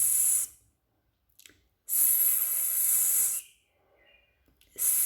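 A person's voice making the 's' sound, a drawn-out hissing 'sss' like a snake, as the sound of the letter S. It is held three times with pauses between: one ends about half a second in, one runs from about 2 to 3.5 seconds, and a third starts near the end.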